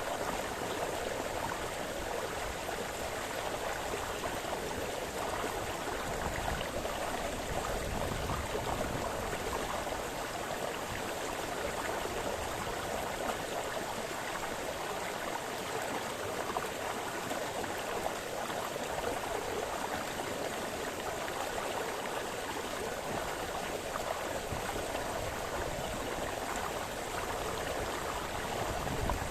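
Small brook splashing and burbling over stones: a steady, even rush of running water.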